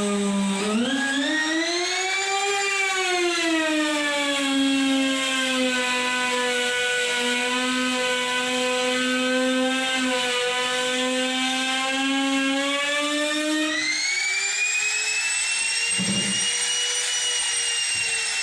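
Electric woodworking power tool running with a steady motor whine. The pitch dips and recovers in the first few seconds as the tool takes and sheds load, then holds level, and it changes pitch about 14 seconds in.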